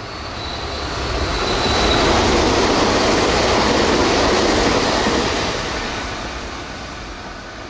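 Meitetsu electric express train passing at speed: a rush of wheel and rail noise that swells over about two seconds, holds loud for about three, then fades away, with a faint high whine as it comes in.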